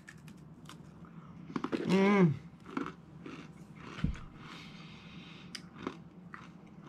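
Crunchy chewing of a seeded trail mix cracker spread with cookie butter, many small crisp crunches, with a short hum from the eater about two seconds in and a soft low knock about four seconds in.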